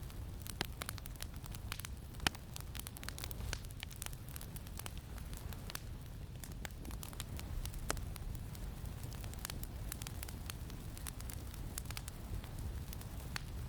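Campfire crackling, with irregular sharp pops and snaps, the loudest about two seconds in, over a steady low wind rumble.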